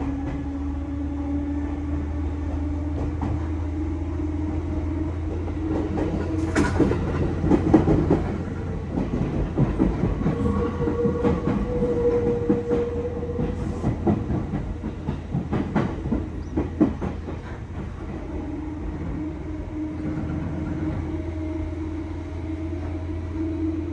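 Seibu 4000 series electric train heard from inside a passenger car as it gathers speed, with a steady electrical hum. The wheels clack sharply over rail joints and points in a dense run through the middle of the stretch.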